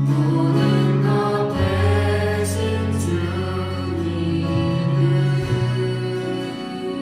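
Church praise band playing a worship song: voices singing over sustained chords and a moving bass line, with a couple of light cymbal strokes about two and a half and three seconds in.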